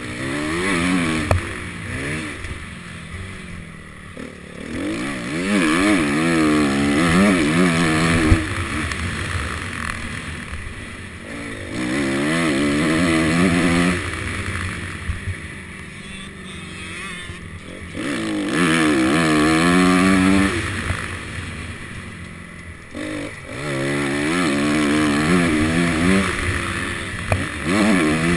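Honda CRF250 motocross bike's single-cylinder four-stroke engine, heard from the rider's helmet, opening up and backing off in about five long surges of throttle, the pitch wavering as it goes, with wind hiss on the microphone.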